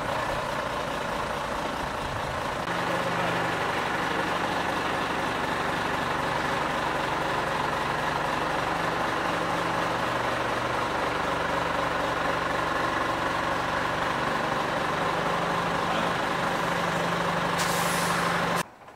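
Scania truck diesel engine running steadily, getting louder and fuller about three seconds in, with a short air hiss near the end before the sound cuts off suddenly.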